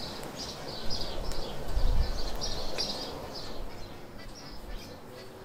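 Small birds chirping over and over in quick short notes, with a brief low rumble about two seconds in.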